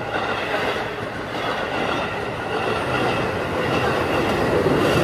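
Electric passenger train passing close by at a level crossing: a steady rumble and rattle of wheels on the rails that grows louder toward the end, with the crossing's warning bell ringing steadily behind it.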